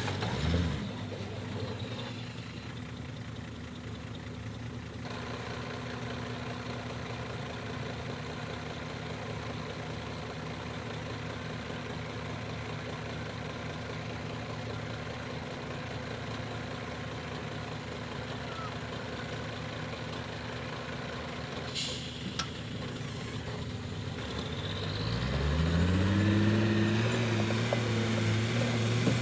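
Dump truck engine idling steadily, with a brief hiss about 22 seconds in; near the end the engine revs up and holds at a higher, louder pitch.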